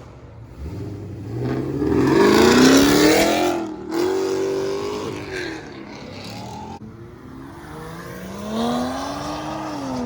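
Car engine revving hard and accelerating away, its pitch climbing steeply to the loudest point about three seconds in, cutting off briefly near four seconds, then pulling on. Near the end another engine note rises and falls.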